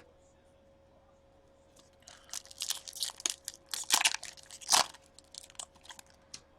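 Crinkling and tearing of plastic trading-card packaging, a quick run of sharp crackles starting about two seconds in, loudest near the middle, then dying away.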